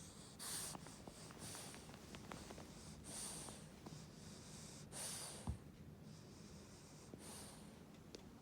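A sleeping French bulldog's faint snorty breathing, with a noisy breath about every one and a half to two seconds. A single short thump comes about five and a half seconds in.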